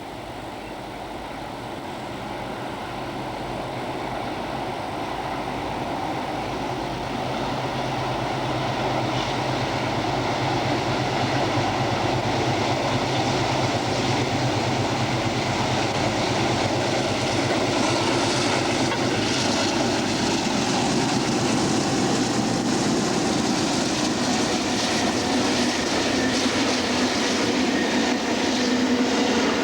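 Diesel-electric train approaching: the locomotive's engine hum grows steadily louder over the first dozen seconds, then wheels clattering over the rail joints and wagons rattling as it passes.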